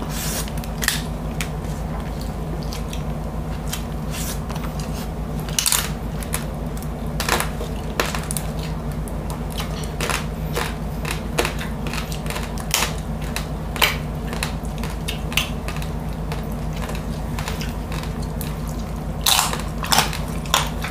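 Close-miked crunching and chewing of crispy lechon (roast suckling pig) skin and meat, with irregular sharp crunches throughout and a louder cluster near the end. A steady low hum runs underneath.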